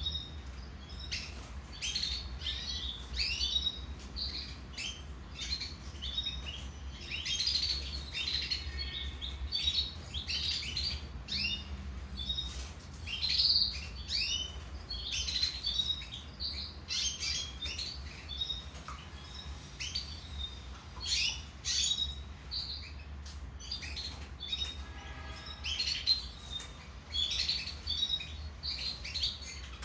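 Domestic canary singing continuously: a long run of quick chirps and warbles broken by fast rolling trills, over a steady low hum.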